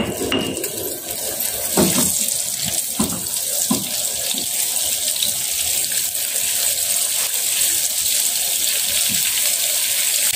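Ground chili and shallot spice paste sizzling in hot oil in a frying pan. It starts sharply and holds as a steady hiss while a spatula spreads and stirs it. A few soft spatula strokes against the pan fall about two to four seconds in.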